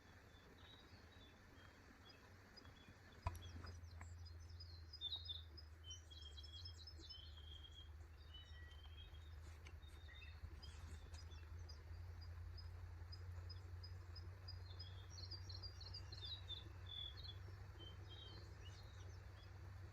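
Faint wild birds chirping and singing in short, high repeated phrases. About three seconds in there is a single sharp click, after which a low, steady rumble sits underneath.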